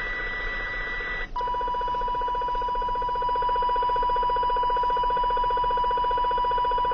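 CB radio receiver on channel 29 sounding RF interference: a steady electronic whistle with a fast buzzing pulse. About a second in it breaks briefly and drops to a lower pitch. The uploader believes a neighbour's LED plant grow light is the source.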